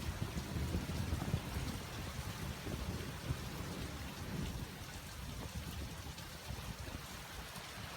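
Heavy rain pouring steadily in a thunderstorm, with a low, uneven rumble underneath.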